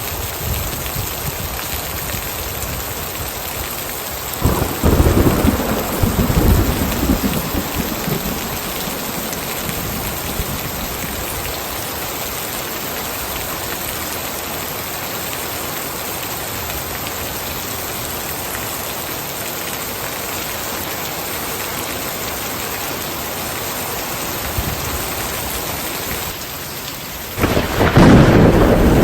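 Heavy rain falling steadily, with a roll of thunder about four seconds in lasting a few seconds, and another starting near the end.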